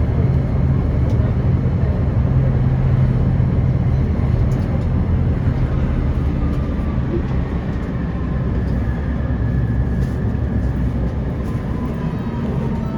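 Tram running, heard from inside the car: a steady low rumble of wheels on rails and motor. From about halfway through, a faint electric whine slowly falls in pitch.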